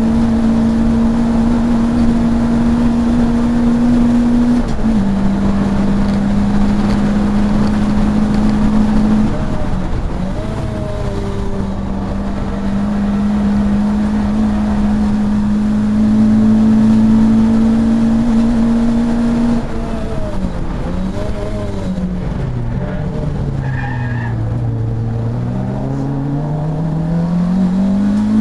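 Racing saloon car's engine heard from inside the car, held at high revs with short drops in pitch at gear changes. About twenty seconds in, the revs fall low as the car slows for a tight corner, then climb steadily as it accelerates out.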